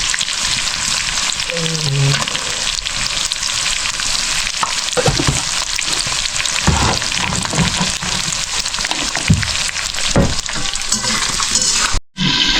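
Bird meat sizzling as it fries in mustard oil in a pan, with occasional knocks from stirring. The sizzle cuts off abruptly near the end.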